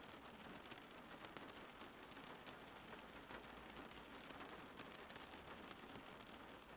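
Rain falling steadily, a faint even hiss broken by many small drop taps.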